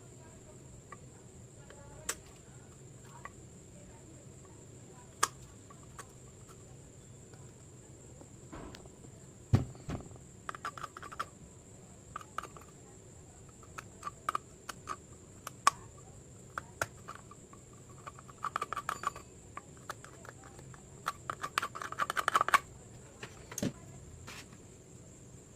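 Scattered small clicks and taps of hand work on a small LED bulb and its parts, with a few short runs of rapid clicking or rattling.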